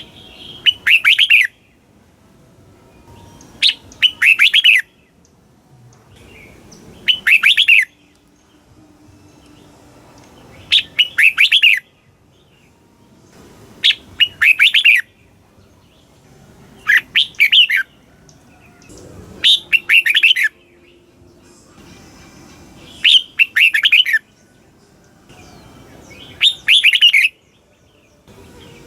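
Red-whiskered bulbul singing: a short, clear whistled phrase about a second long, repeated about every three seconds, nine times in all.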